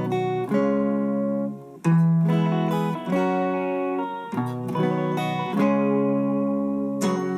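Acoustic guitar strumming chords in the song's instrumental opening, moving to a new chord about every second or so, with a brief drop just before the second change.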